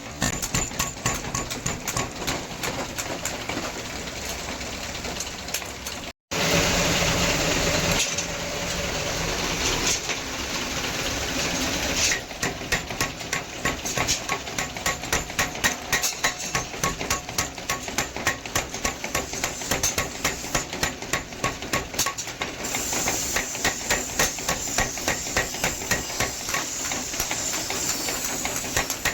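Hammer striking hot scrap iron on an anvil while hand-forging a cleaver: a fast, regular run of blows. For several seconds after a short break the blows give way to a steady hissing noise, then the hammering starts again.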